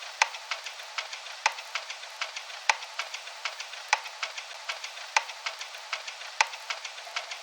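Steady crackling hiss with sharp pops, a few a second, like the surface noise of a vinyl record, thin and cut off below and above. It starts abruptly out of silence as the lead-in to a music track.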